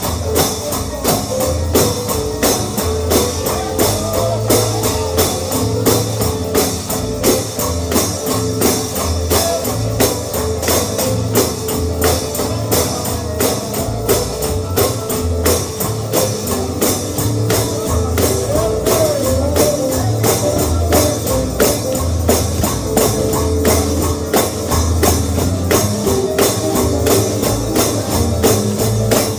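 Instrumental stretch of bluegrass gospel music with no singing: a tambourine keeps a fast, steady beat over guitar and a pulsing bass line.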